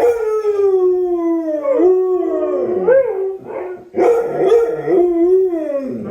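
Dogs howling together, long howls with overlapping, sliding pitches, breaking off briefly about halfway through before rising again.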